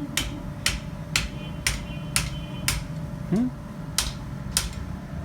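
Blacksmith's hammer striking a red-hot mild steel bar on the anvil, about two blows a second with a short pause after the sixth, eight blows in all, shaping the bent bar into a chain link.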